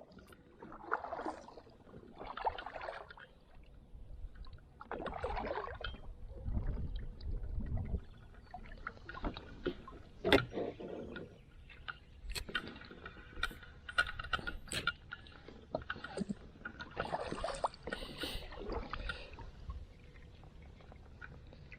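Kayak paddle strokes swishing through the water, with a run of sharp knocks and clicks in the middle, like gear or the paddle bumping the plastic hull.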